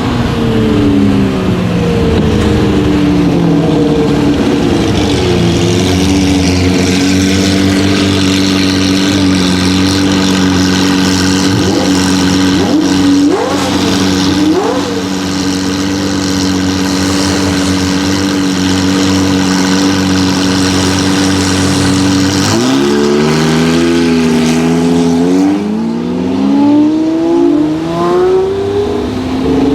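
Lamborghini Murcielago LP640's 6.5-litre V12 through a straight-piped Fi Exhaust. Its note falls over the first few seconds as the car slows, then holds steady at a cruise for a long stretch. In the last several seconds it rises and drops again several times as the car accelerates and changes gear.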